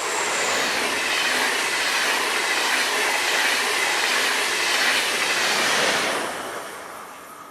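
A train passing close by on the track, with loud wheel-on-rail noise and faint high squealing. It comes in quickly, holds steady, and fades out about six seconds in.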